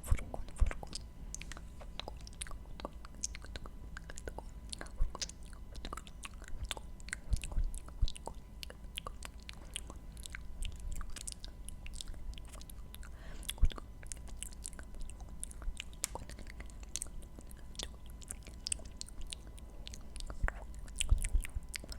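Close-miked ASMR mouth sounds: a dense, irregular run of small wet clicks and smacks, several a second, with a few louder ones.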